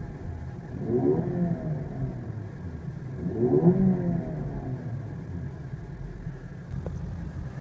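Range Rover Evoque's 2.0-litre turbocharged four-cylinder engine idling and blipped twice, about a second in and about three and a half seconds in, each rev rising and falling back to idle.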